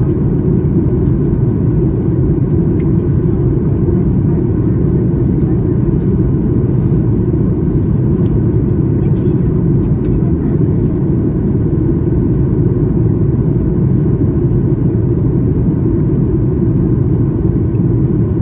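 Steady cabin noise of a Boeing 737 MAX 8 airliner: a low, even rush that does not rise or fall, with a few faint ticks here and there.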